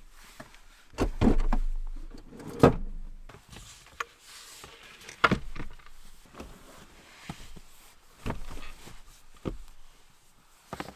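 Irregular knocks, thumps and rustling of gear and bedding being moved around in the back of a Jeep while a sleeping setup is made, with the loudest thuds a second or two in.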